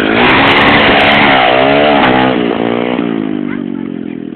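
Pit bike engine revving hard, its pitch rising and falling several times with the throttle. Loudest in the first couple of seconds, then fading away.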